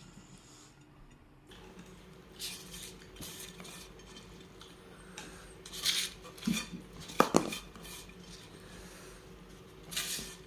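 Cutlery clinking and scraping against a plate while eating, a handful of separate clinks over a quiet background.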